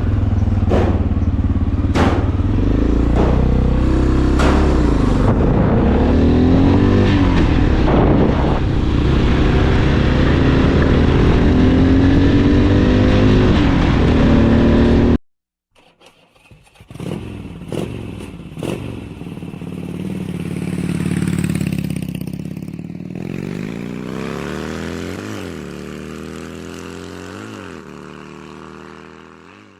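Motorcycle engine running steadily while riding, with a few sharp clicks. Halfway through the sound cuts off abruptly. After a short gap an engine comes back, revving up and down several times, then fades out.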